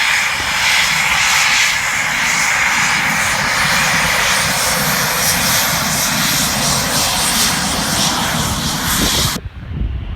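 Military fast jet's engines at high power: loud, steady jet noise. About nine seconds in it cuts off abruptly, leaving a quieter, lower rumble.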